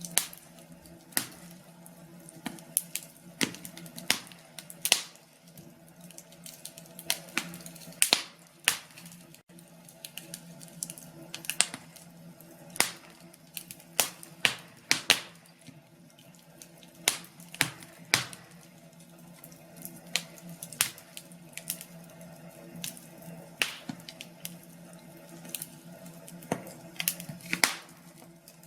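Wood fire crackling in a fireplace: irregular sharp pops and snaps, several a second, over a faint steady hum.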